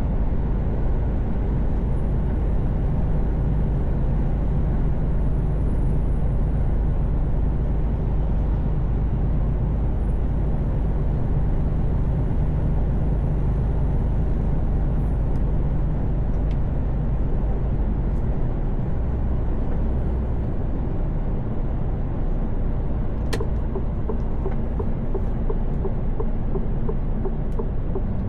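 Mercedes-Benz Actros truck's diesel engine and tyre and road noise, heard inside the cab while cruising at steady highway speed. A faint high whine sits above the steady rumble in the first half.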